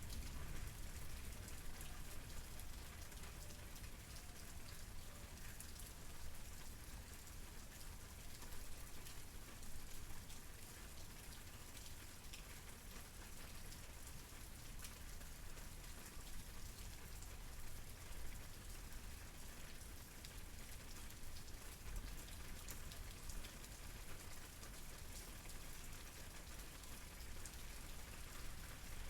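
Steady rain falling, a dense patter of raindrops on a surface with a soft low rumble underneath.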